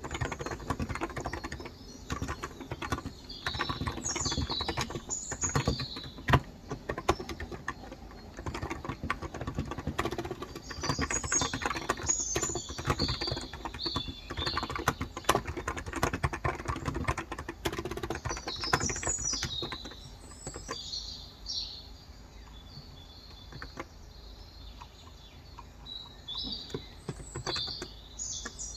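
Typing on a Cox Endeavor tenkeyless keyboard with 35 g electrostatic-capacitive switches: rapid, continuous keystrokes for about twenty seconds, then thinning out to scattered taps. Birds chirp in the background throughout.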